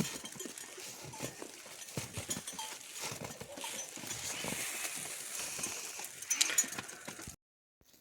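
Livestock hooves clattering over stony ground: many irregular knocks and scrapes over a steady hiss, cutting off suddenly near the end.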